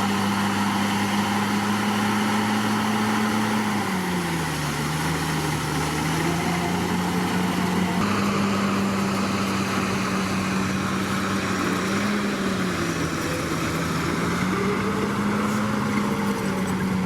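Komatsu D61PX bulldozer's diesel engine running steadily; its pitch dips and comes back up twice.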